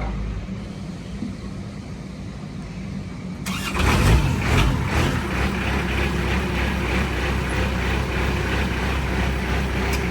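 A low steady hum, then about three and a half seconds in the Moffett M5500 truck-mounted forklift's diesel engine starts with a sudden loud burst and settles into a steady idle.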